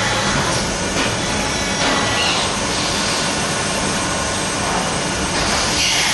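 MATEC 30 HV CNC machining center running: a steady, loud machine noise with faint high whining tones that change about two seconds in.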